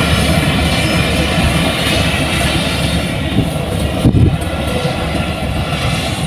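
Heavy farm machinery's diesel engine running loud and steady with a high whine. About four seconds in the whine thins out and there is a sharp knock.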